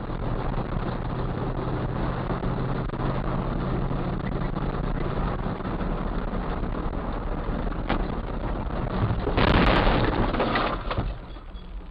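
Car dashcam audio: steady engine hum and road noise. About nine and a half seconds in, a loud, rough burst of noise lasts over a second, typical of a collision.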